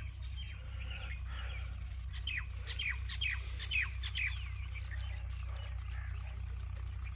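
Parrot calling: a run of short, sharp chirps, each sliding downward in pitch, coming thickest between about two and four and a half seconds in. A steady low hum sits underneath.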